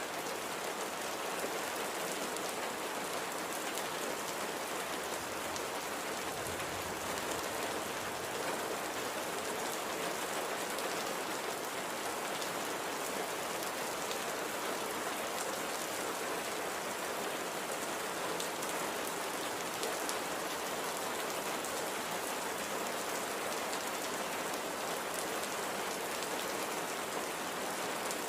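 Steady light rain falling on a surface, an even hiss with scattered drop patter.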